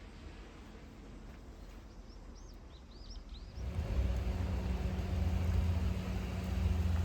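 A few faint bird chirps over a quiet outdoor background. About three and a half seconds in, a steady low rumble with a low hum starts suddenly: a car driving, engine and road noise.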